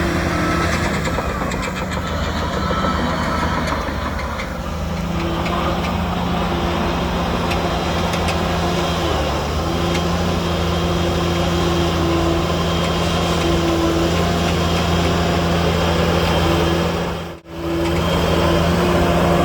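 Heavy diesel engine of earthmoving machinery running steadily at a constant pitch. A repeating beep fades out in the first few seconds, and the sound cuts out briefly near the end.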